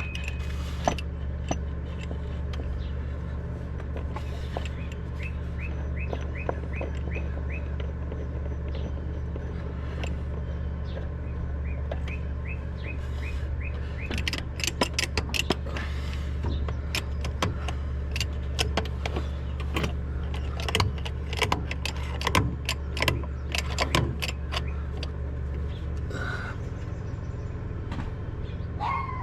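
Clinks, clicks and knocks of tools and parts being handled, thickest in the second half, over a steady low hum. Twice in the first half comes a short run of quick high chirps.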